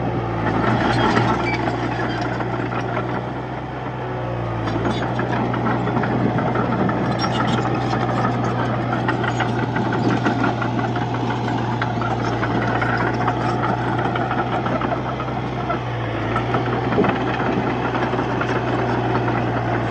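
Komatsu D31P crawler bulldozer working, its diesel engine running steadily under the clatter of its steel tracks. The engine note dips briefly twice.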